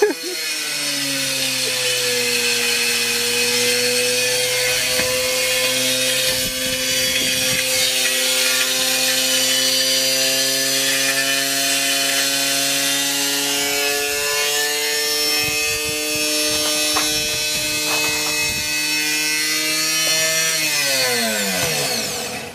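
Washing machine spinning with a heavy object inside. It runs with a loud, steady whine over a grinding, scraping noise. Near the end the whine slides down in pitch and dies away as the drum spins down.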